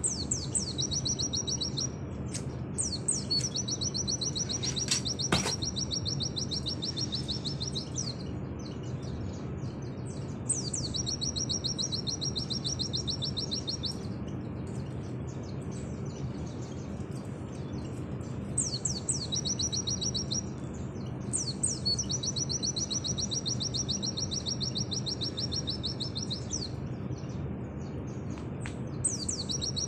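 A pleci (white-eye) singing its 'nembak' song: about six bouts of very rapid, high-pitched repeated notes, each lasting a few seconds, with short pauses between them. A steady low hum runs underneath, and there is a single click about five seconds in.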